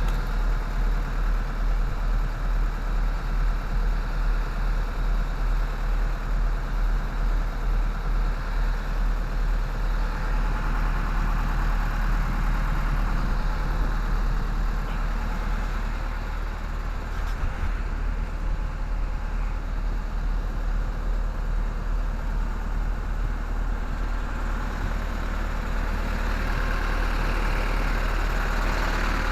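Truck refrigeration unit running with a steady engine drone and low hum, its condenser fans not working.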